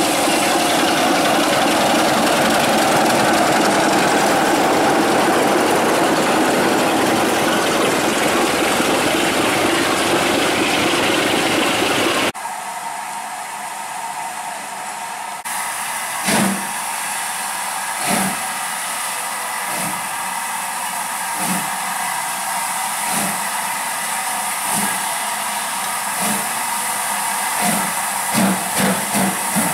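A train running: a loud steady engine noise with a low hum for about twelve seconds. After a sudden cut comes a quieter steady rushing, with regular thumps about every second and a half that come closer together near the end.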